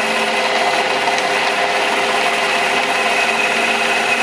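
Small metal lathe running steadily under power feed, its motor and gears giving a constant hum with a few steady tones.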